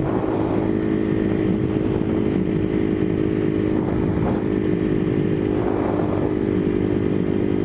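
Husqvarna 510 dirt bike's engine running at a steady cruise while carrying a rider and a passenger, a constant even drone with no revving.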